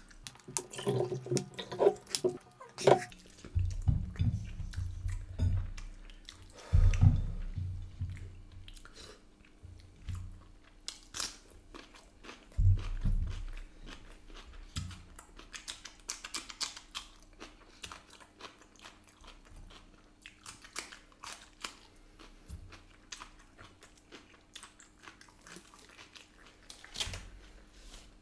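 Close-up eating sounds: chewing and biting at a mutton leg piece on the bone. The mouth sounds are densest and loudest in the first several seconds, then thin out to scattered smacks and clicks.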